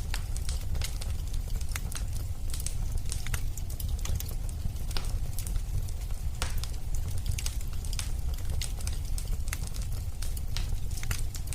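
Fireplace wood fire burning: a steady low rumble with irregular sharp crackles and pops from the burning logs.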